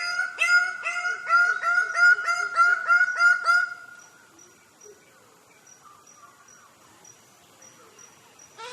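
A bird-of-paradise calling in a fast, even series of loud pitched notes, about three or four a second, for nearly four seconds. The calls then stop, leaving only faint sounds, and the same rapid series starts again near the end.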